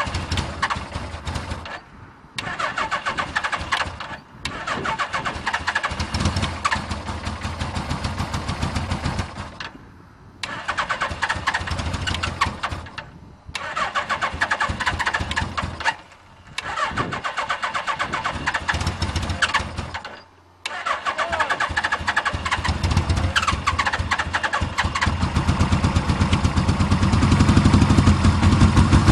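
Suzuki GS850G air-cooled four-cylinder motorcycle engine being cranked by its electric starter on choke in a cold start, in about seven bursts broken by short pauses. On the last, longest crank the engine begins to catch and runs louder near the end. A bad ignition coil leaves it able to fire on only some of its cylinders.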